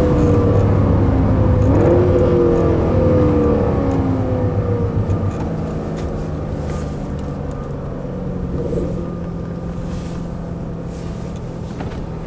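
Chevrolet Camaro's engine heard from inside the cabin, its pitch falling over the first five seconds or so, then running quieter with a low, steady hum.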